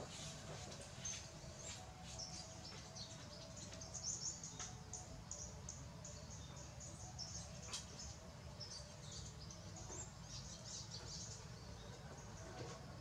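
Faint, rapid high-pitched chirping of small birds, many short chirps in quick runs, over a low steady rumble.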